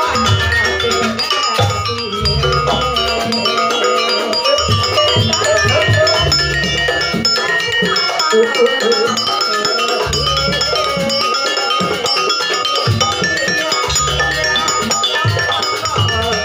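Live campursari dance music: metal-keyed gamelan mallet instruments ringing out a busy, quick melody over heavy low bass-drum beats that come in short groups.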